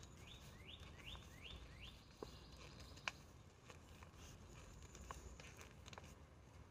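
Faint outdoor bird song: a quick run of about six slurred whistled notes in the first two seconds. Scattered faint clicks and taps follow, the sharpest a little past three seconds in.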